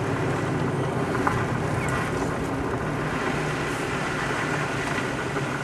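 Steady engine and road noise of a vehicle being driven, heard from inside the cabin.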